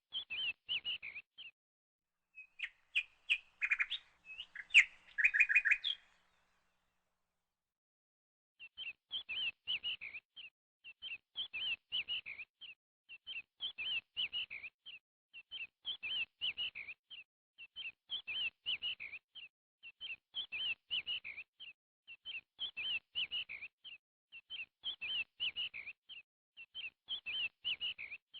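Bird chirping: a louder flurry of chirps a few seconds in, a pause of silence, then one short, high chirping phrase repeated at an even pace about every two seconds.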